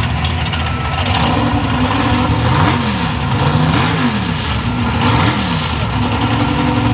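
Mega truck's engine revving hard, its pitch dropping and climbing again three or four times over a steady engine drone.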